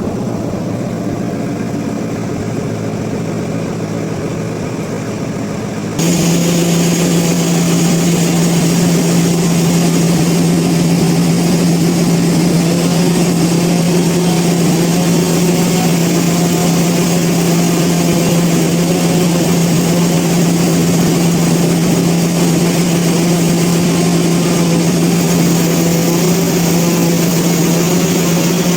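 Sawmill machinery running with a steady hum. About six seconds in, the sound cuts abruptly to a louder, steady hum with a strong low tone and a hiss over it.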